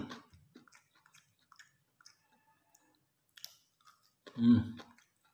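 Close mouth chewing of fried tofu and raw bird's eye chili: scattered soft, wet clicks and ticks from the mouth. About four and a half seconds in, the eater makes a short voiced hum.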